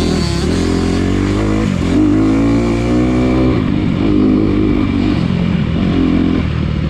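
Dirt bike engine running under the rider on a rough trail, the pitch rising and falling with the throttle several times.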